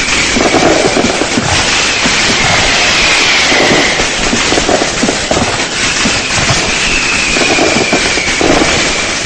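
Fireworks going off in a dense, continuous barrage of overlapping bangs and crackles. A few times a high whistle drifts slightly down in pitch over a second or so.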